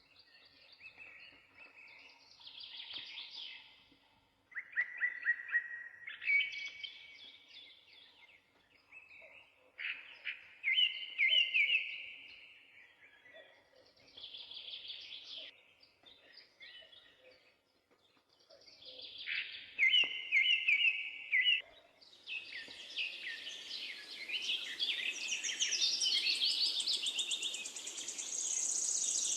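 Songbirds singing in short separate phrases a few seconds apart. About two-thirds of the way through, the song thickens as several birds overlap over a steady hiss.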